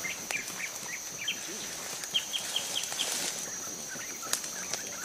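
Forest ambience with birds calling in short chirps, including a quick run of five chirps near the middle, over a steady high-pitched tone. A couple of sharp clicks.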